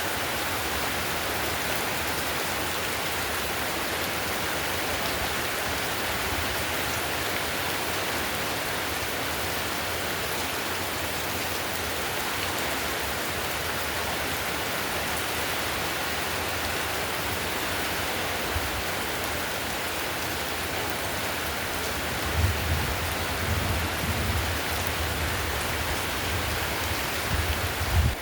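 Heavy rain falling on clay roof tiles: a steady, even hiss. Near the end, a few low thumps sound under it.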